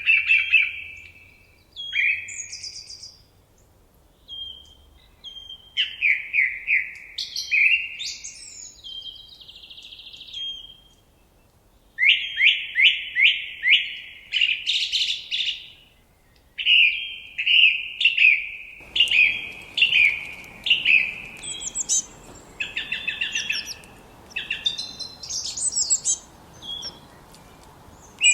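Forest songbirds singing: phrases of quick, repeated high chirps and trills, one after another with short pauses. A faint steady hiss of background ambience comes in about two-thirds of the way through.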